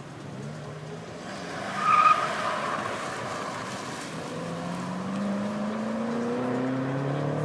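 A BMW's tyres squeal briefly about two seconds in, the loudest moment. Then its engine accelerates, rising steadily in pitch.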